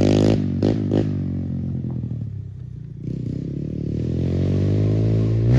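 Pit bike engine being ridden on a dirt jump track: two quick throttle blips about a second in, the engine then fading off, and over the last few seconds growing steadily louder and higher in pitch as it revs up again.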